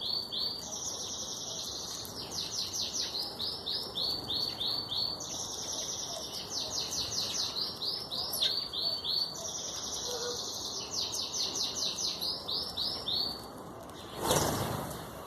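A songbird singing the same phrase three times, each a held high whistle followed by a quick run of falling chirps and then slower notes. Near the end there is a short noisy bump.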